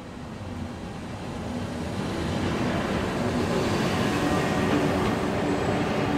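A train approaching, its running and wheel noise growing louder over the first two or three seconds and then holding steady.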